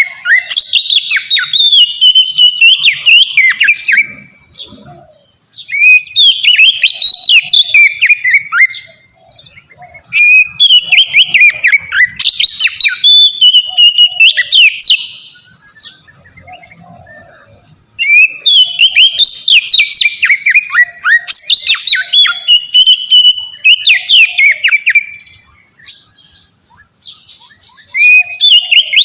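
Oriental magpie-robin (kacer) singing loudly in its open, flowing style: rapid runs of sharp, varied whistled and chattering notes. The phrases come in bouts of several seconds, broken by pauses of one to three seconds.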